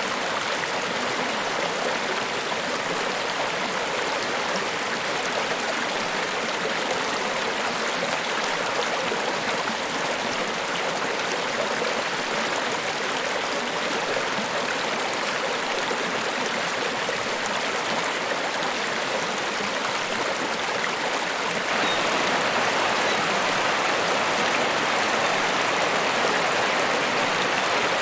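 Niagara Falls: a steady rush of falling water, stepping up a little louder and brighter after about twenty seconds.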